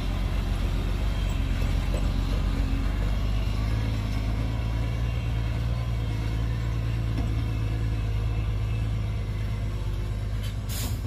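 Heavy diesel engine of earthmoving machinery running steadily at low revs, a low even drone. A short hiss near the end.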